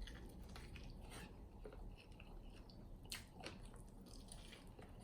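Faint chewing of chicken wings in garlic sauce, with scattered soft, wet mouth clicks.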